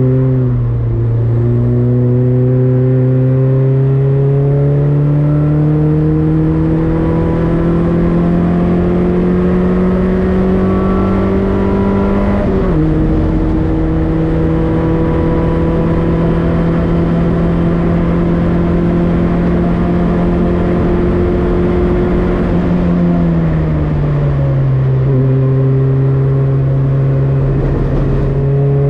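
Citroën Saxo race car's four-cylinder engine pulling under load. The revs climb slowly, drop sharply at a gear change about twelve seconds in, hold steady, then ease down about twenty-three seconds in. A steady rushing noise runs underneath.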